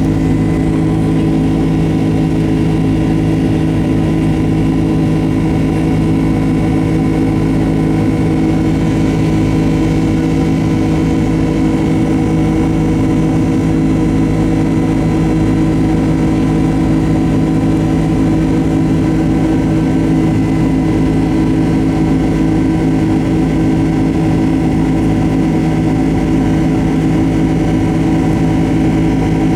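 Boeing 767-200's jet engines running at a steady power: a constant drone with several steady tones over a low rumble, neither rising nor falling.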